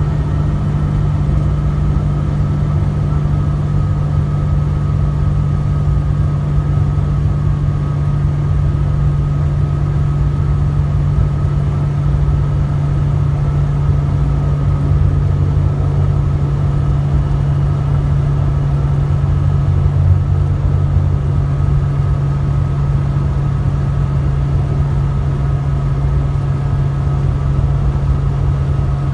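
Truck engine running steadily at cruising speed with a constant low drone and road noise, heard from inside the cab.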